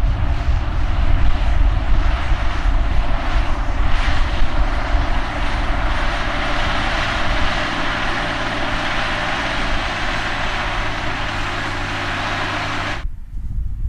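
A big John Deere tractor's diesel engine running steadily, a loud even drone with a broad rushing noise over it. The sound cuts off suddenly near the end, giving way to a much quieter background.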